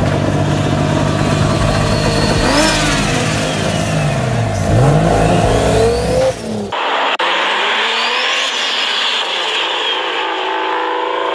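Car engine running and revving: its pitch drops and climbs again near the middle. About two-thirds through, the sound changes abruptly to a thinner, higher sound with the deep part gone.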